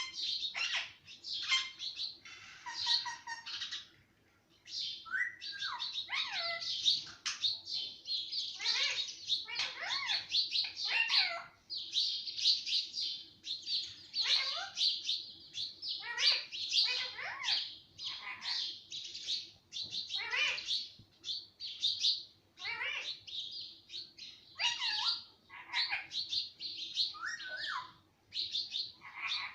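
Pet parrot chirping and chattering in a quick run of short, high, sliding calls, with a brief pause about four seconds in.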